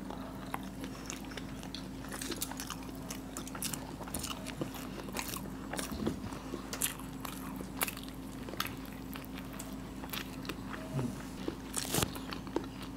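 Hard-boiled eggs coated in spicy masala being bitten and chewed: soft, wet chewing with many scattered mouth clicks and smacks.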